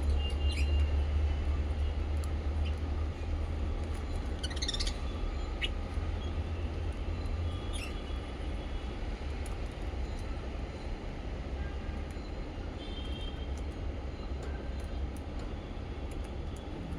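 Small pet parrots chirping sparsely, in short scattered calls that come in a quick flurry about four seconds in, over a steady low rumble that eases off about halfway through.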